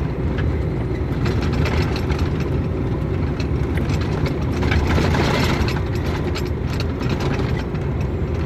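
Steady engine and road rumble of a vehicle being driven on a snowy road, heard from inside the cab, with a short swell of rushing noise about five seconds in.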